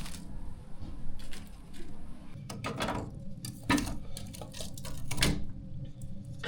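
Cookware being handled while frying food: several sharp knocks and clatters about halfway through, over a steady low rumble.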